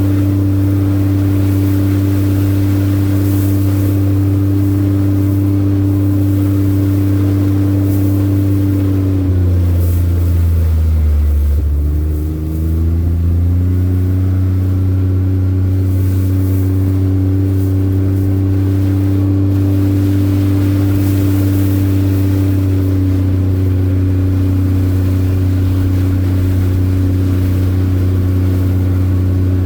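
Engine running steadily with a low hum; about ten seconds in its pitch sinks, then climbs back to the same steady note by about fourteen seconds.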